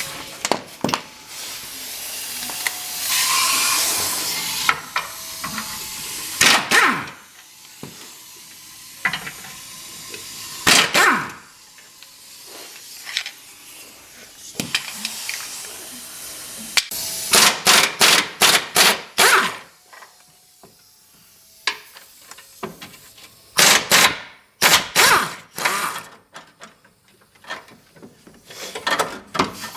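Hand tools working on a car's underside: a hiss like an aerosol spray about two seconds in, then scattered metal knocks and clicks, with bursts of rapid clicking, like a ratchet wrench, in the middle and again towards the end.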